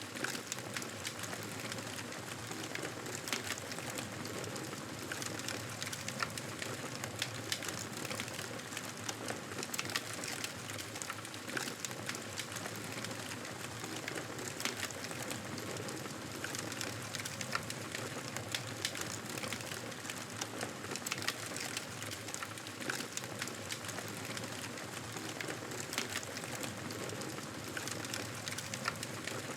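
Wood fire crackling steadily, many irregular sharp snaps over a constant hiss.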